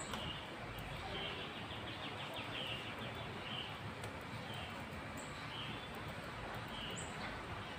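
Birds chirping: short high-pitched calls repeated every half second to a second, with a rapid trill about two seconds in, over a steady background hiss.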